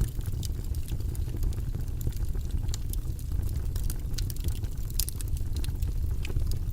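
Wood fire crackling in a fireplace: irregular sharp pops and snaps over a steady low rumble of the flames, with a louder pop about five seconds in.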